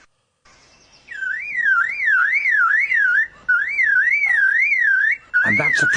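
A bird's high whistled call warbling quickly up and down in pitch, about three times a second, in three long phrases with short breaks, much like a car alarm.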